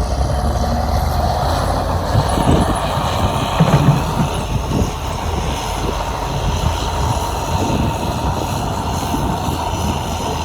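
Heavy diesel earthmoving machinery running steadily, with a few louder knocks and thuds a few seconds in.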